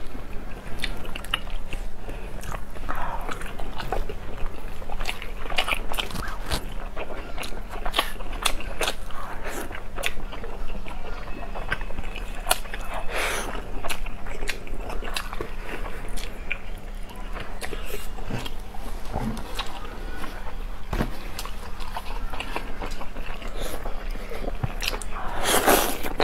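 Close-miked eating: two people biting and chewing broccoli, fish-cake squares and sauced enoki mushrooms, with crunches and many small sharp wet clicks scattered throughout.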